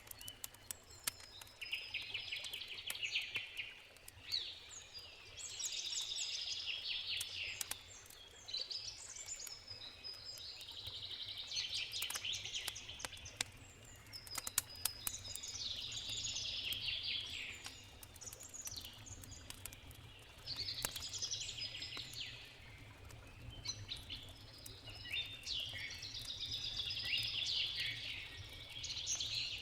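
A songbird singing in repeated phrases of two or three seconds each, coming roughly every four to five seconds, over the scattered pops and crackles of a wood campfire.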